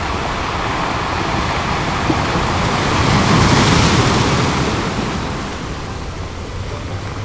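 Ocean waves breaking on a beach: a wave swells to its loudest a little past halfway through, then washes back and eases.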